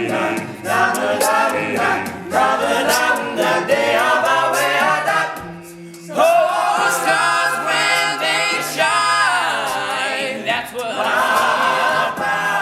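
Male a cappella group singing wordless vocal parts, with sustained harmony chords over a low bass voice and a lead line that bends and slides in pitch.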